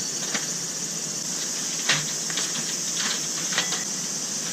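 Steady high-pitched insect chorus trilling, with a few scattered light clicks and knocks of things being handled, the sharpest about two seconds in.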